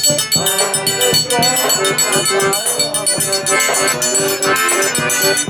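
Live forró pé-de-serra music in an instrumental passage between sung lines: an accordion-led melody over fast, steady percussion.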